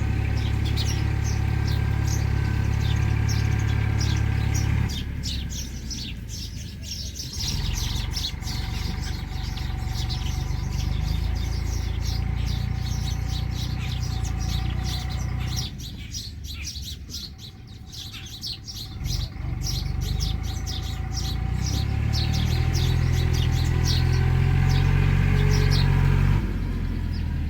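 Small birds chirping rapidly and continuously, over a low motor-like hum that drops away twice, about five seconds in and again past the middle, before returning.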